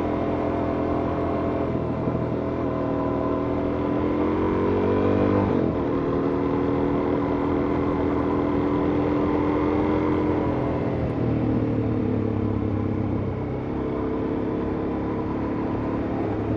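Suzuki DR-Z400S's single-cylinder four-stroke engine running under way: it revs up about four seconds in, drops sharply, holds steady, then eases off about eleven seconds in.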